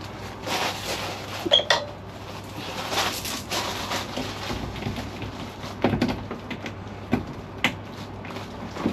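Metal clunks, knocks and scraping as the rusty tailgate of a MK2 Ford Fiesta is handled and opened, with several sharp knocks scattered through it.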